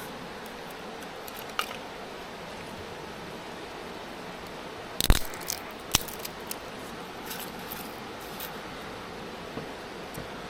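A few sharp metallic clinks and knocks over a steady hiss, the loudest cluster about halfway through, with fainter taps scattered after it.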